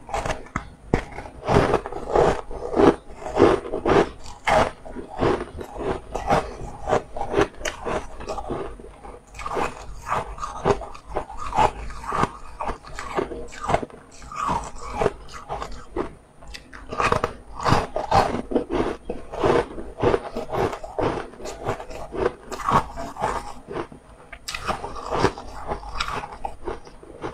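Close-up crunching and chewing of a crisp frozen ice cookie, in runs of rapid sharp crunches broken by a few short pauses.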